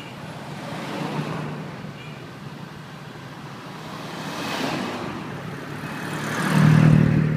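Motor vehicles passing on a road, three in turn. The last passes closest and is the loudest, with a low engine note.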